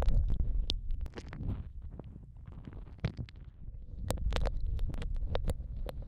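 Close-miked wet mouth sounds of ear eating: irregular lip and tongue clicks and smacks right against an ear microphone, over a low rumble.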